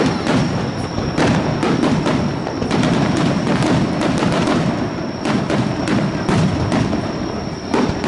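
Aerial fireworks bursting in rapid succession, many sharp reports overlapping into a continuous crackling rumble.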